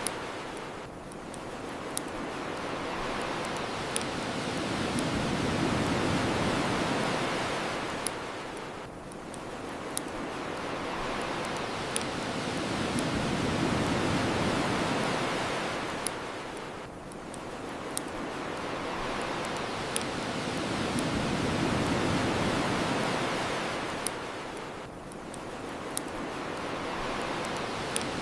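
Ocean surf washing on the shore, swelling and ebbing about every eight seconds, with sharp crackling pops from a bonfire about every two seconds.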